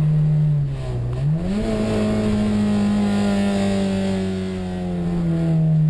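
Four-cylinder engine of a Dodge Neon rally car heard from inside the cabin, running hard at speed. The revs dip briefly about a second in, climb quickly, then fall slowly and steadily.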